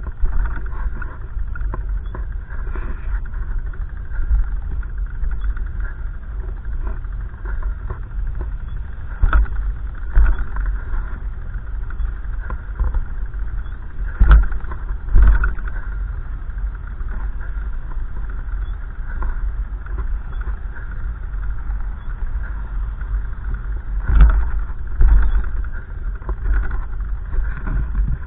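Gusty wind buffeting the microphone: a continuous low rumble that swells with stronger gusts, loudest about a third of the way in, around the middle and near the end.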